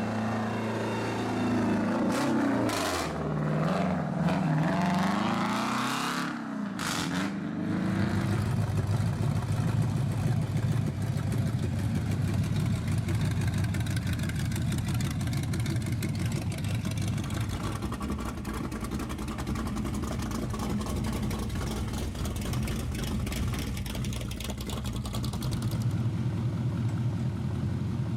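A hot rod's car engine revving, its pitch rising and falling for the first several seconds. It then settles into a steady, rough, loud running sound.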